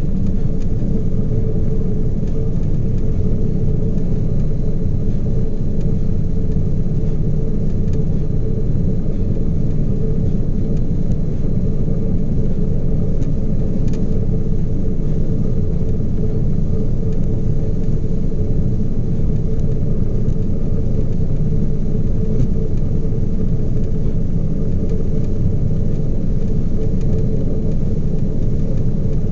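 Ship's engine and machinery running steadily: a constant low rumble with a steady hum underneath.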